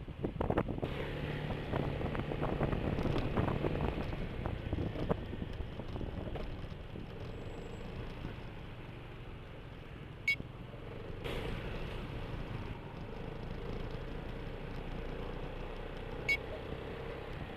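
Riding in city traffic on a BMW C400GT scooter, its single-cylinder engine running under road and traffic noise, loudest in the first few seconds. Two short, sharp clicks come about ten and sixteen seconds in.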